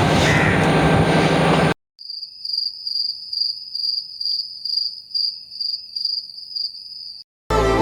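A cricket chirping: a clean, high, steady trill pulsing about three times a second. It is preceded by a steady running noise with a low hum that cuts off abruptly about two seconds in.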